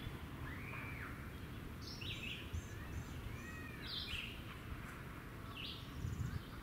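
Songbirds calling: short chirps and arched whistled notes every second or so, including a quick run of four notes about two seconds in, over a low steady rumble.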